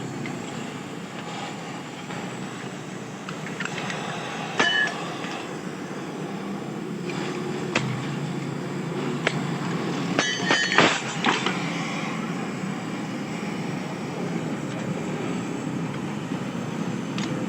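Steady background rumble with scattered sharp metallic clinks and taps, a few of them ringing briefly, the loudest cluster about ten seconds in: metal parts being handled or struck during a motorcycle swing arm repair.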